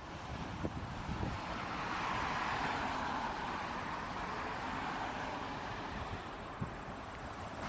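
Jet airliner taking off, a Swiss Airbus A220 (C-Series): a broad engine rush that swells over the first couple of seconds and then slowly fades.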